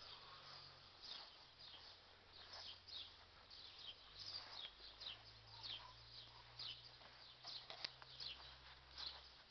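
Faint birdsong: quick, high, slightly falling chirps repeated two or three times a second, over a faint low hum.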